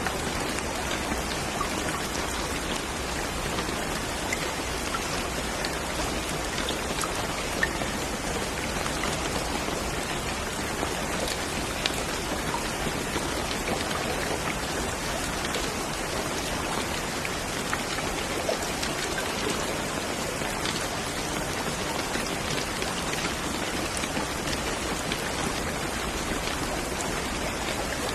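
Steady rain falling on a surface, an even patter with scattered individual drop ticks.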